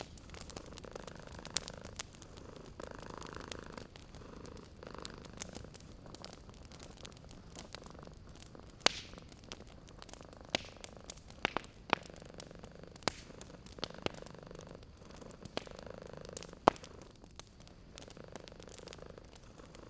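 A cat purring close by, in slow swelling and fading cycles, over a crackling wood fire that throws sharp pops now and then, the loudest three or four of them standing out.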